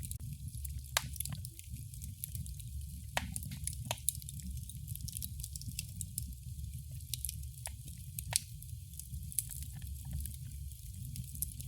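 Wood fire crackling: a steady low rumble of burning, with frequent sharp pops and snaps and a few louder pops scattered through.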